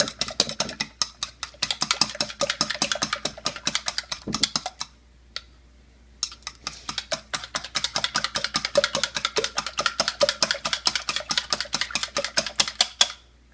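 Eggs being beaten by hand in a bowl, the utensil clicking rapidly against the bowl, several strokes a second, with a brief pause partway through. The eggs are being whipped until just a little foamy.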